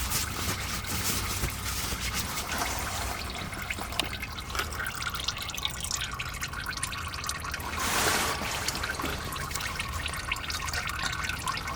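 Engine oil running and trickling out of a loosened spin-on oil filter on a 7.3 Powerstroke diesel into a drain pan. About 8 seconds in there is a brief louder splash.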